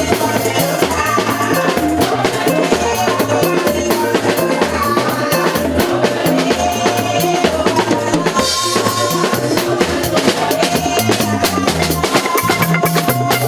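Live band music with a steady drum-kit beat, bass drum and snare, over a moving bass line and sustained melody notes.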